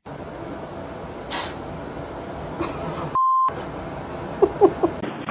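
A short pure bleep tone, the loudest sound here, cuts in about three seconds in over a steady background hiss. A few short high squeaks follow near the end.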